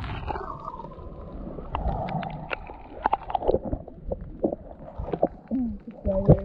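Water sloshing and splashing in irregular small bursts, with gurgling.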